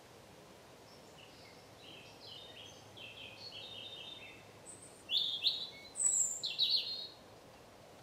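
Wild songbirds singing in woodland. A run of quick, faint notes comes first, then louder, sharper phrases about five to seven seconds in, over a faint steady background hiss.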